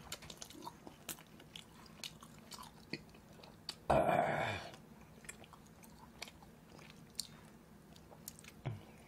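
A person chewing mouthfuls of boneless braised chicken close to the microphone: many small wet clicks and smacks. About four seconds in there is one louder, breathy sound lasting under a second.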